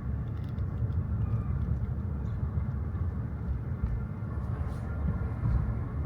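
Steady low road and tyre rumble of a Hyundai Kona Electric on the move, heard from inside the cabin.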